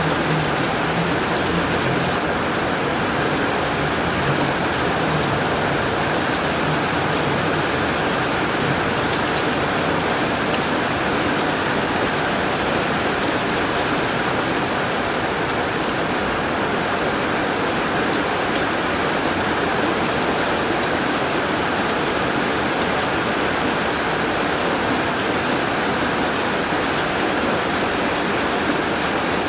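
Steady heavy rain drumming on a tin roof, an even hiss of many drops.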